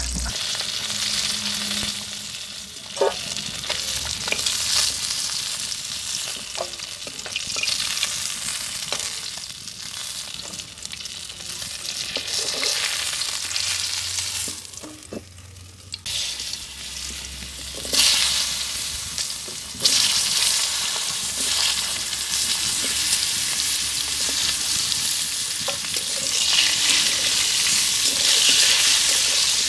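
Hot oil sizzling in a metal wok as koi fish (climbing perch) and then potato wedges fry, with a spatula scraping and clacking against the pan now and then. Briefly quieter about halfway through.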